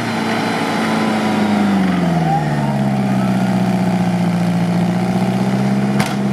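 An off-road vehicle's engine held at raised revs, then easing off about two seconds in to a steady lower speed. There is one sharp click near the end.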